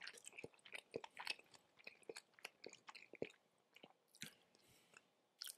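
Close-up mouth sounds of a person chewing raw tuna sashimi: a rapid, irregular run of small clicks and smacks, with a louder smack about four seconds in and again near the end.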